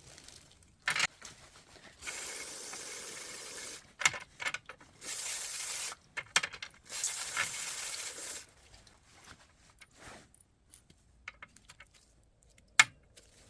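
Three bursts of hissing, each one to two seconds long, with sharp clicks and knocks between them and a few more later on.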